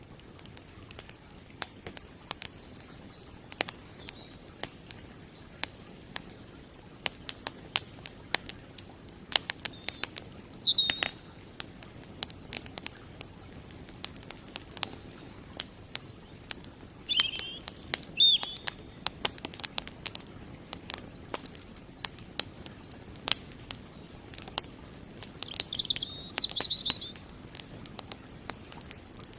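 Wood fire crackling, with frequent sharp pops and snaps, over the steady rush of a flowing creek. A bird chirps briefly several times: near the start, about ten seconds in, around seventeen seconds, and near the end.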